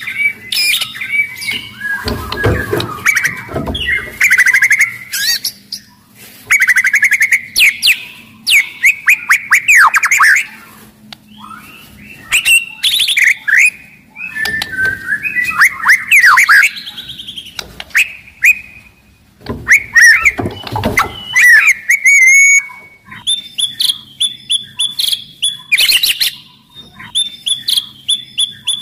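White-rumped shama singing loudly in a rapidly varied song of clear whistles, fast trills and harsh chattering notes, broken by short pauses. A few low thumps come about two seconds in and again near twenty seconds.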